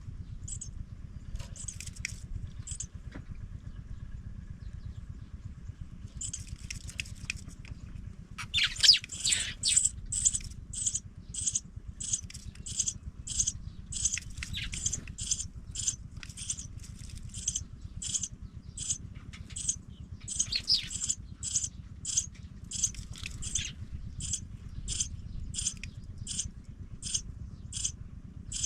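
Nestling pipits calling over a steady low rumble: a few scattered high chirps, then from about a third of the way in a run of short, high, evenly repeated cheeps, about two a second. Scratchy rustling comes twice, about nine seconds in and again about twenty-one seconds in.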